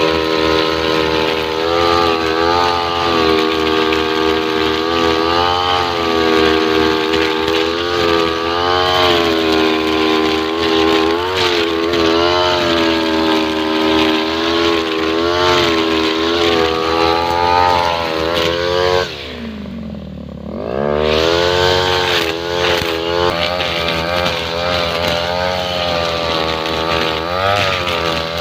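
Two-stroke brush cutter fitted with a nylon-line trimmer head, running at high revs, its pitch wavering up and down as the line works. About two-thirds of the way through, the throttle is let off and the engine drops toward idle for about two seconds, then revs back up.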